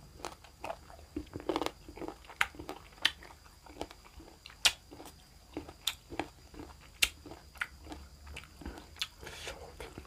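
A person chewing and biting food close to the microphone, with irregular sharp mouth clicks and crunches.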